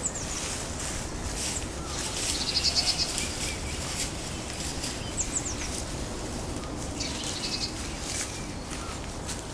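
Woodland songbirds singing over a steady low background hiss. A rapid trill of evenly repeated notes comes about two seconds in and again near seven seconds, and short, very high falling notes come at the start and about five seconds in.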